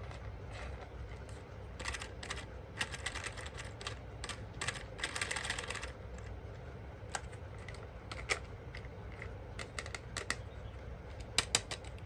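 Irregular light clicks and rattles of small hard objects being handled, with a dense run of clatter about five seconds in, over a steady low hum.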